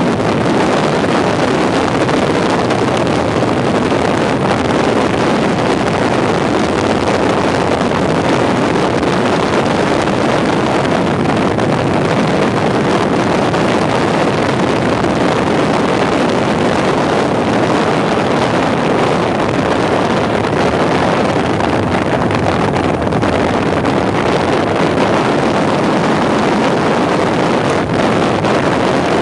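Aprilia RS125 two-stroke motorcycle running at a steady speed under heavy wind rush on the microphone, with no clear revving up or down.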